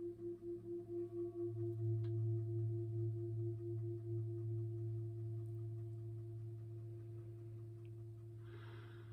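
Crystal singing bowls ringing: a low tone that swells about a second and a half in, over a higher tone with a steady wobble, the sound slowly fading out. A short soft rustle near the end.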